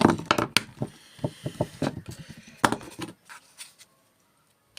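Irregular knocks, clicks and rubbing from microwave parts being handled and set down, for about three seconds, then near silence.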